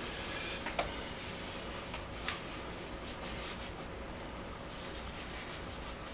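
Faint rubbing and wiping as built-up grime is cleaned off appliance parts, with two light clicks and a faint steady hum underneath.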